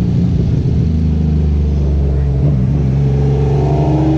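Car engine running loudly at a steady low pitch, then its revs begin to climb near the end.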